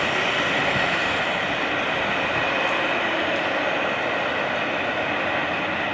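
Intercity passenger train pulling away on electric traction, the steady rolling noise of its coaches' wheels on the track slowly fading as it recedes.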